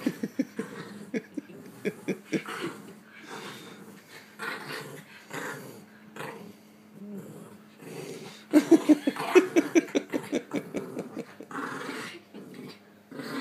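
Two dogs play-fighting, growling in short rapid runs, with the loudest, fastest stretch of growls from about eight and a half to ten seconds in.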